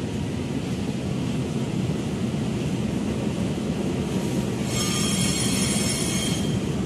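Passenger train coaches rolling past with a steady rumble of wheels on rail. About five seconds in, a high metallic squeal from the wheels sounds for about two seconds.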